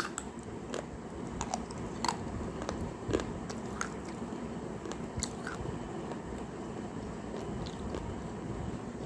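A person chewing and crunching pieces of baked clay pot dipped in water, with irregular sharp crackles that thin out in the second half.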